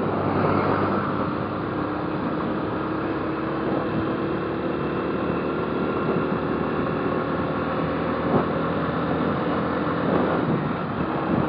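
Motorcycle engine running steadily while riding, with wind and road noise; the engine note shifts slightly near the end.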